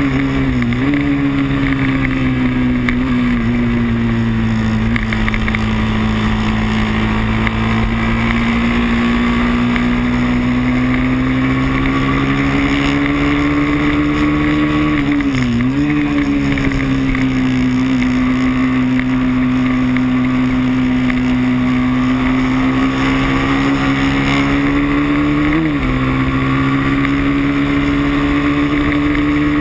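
Moto3 race motorcycle engine heard onboard, held at high, near-steady revs at racing speed. Its pitch dips sharply and recovers three times: about a second in, about halfway through, and near the end.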